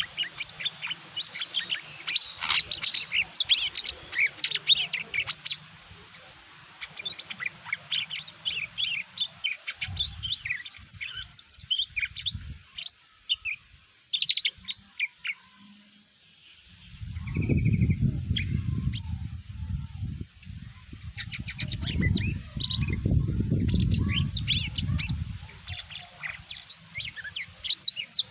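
Cucak ijo (green leafbird) singing in quick, varied chirping phrases. A low rumbling noise runs for several seconds past the middle.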